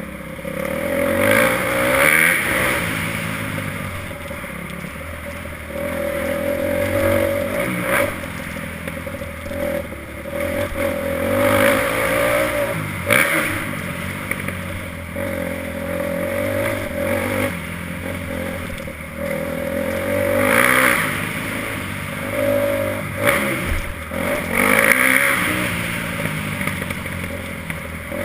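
Motocross bike engine revving hard and easing off over and over, its pitch rising and falling as it runs through the gears.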